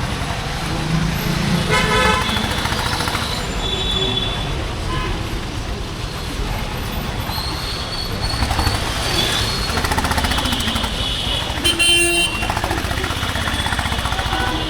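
Honda H'Ness CB350's air-cooled single-cylinder engine running under way with a steady low exhaust rumble, while vehicle horns toot several times in the traffic around it, the loudest about twelve seconds in.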